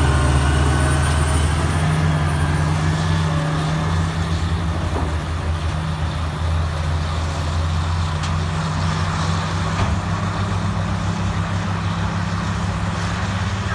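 Diesel engine of a single-engine wheel tractor-scraper running steadily with a deep, even drone.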